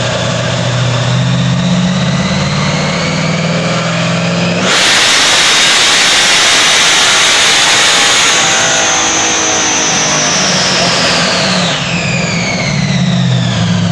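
Supercharged Pontiac big-block V8 in a Ford Mustang GT making a dyno pull. The revs climb steadily, then about four and a half seconds in it jumps to a much louder full-power sound with a high whine over it for about seven seconds, and the revs fall away near the end.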